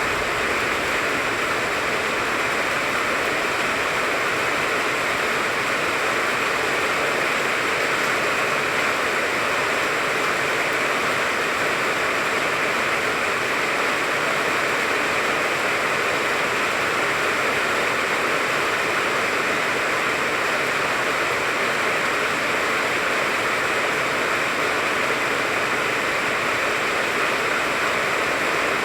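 Steady rain falling on a tangerine tree: an even, unbroken hiss.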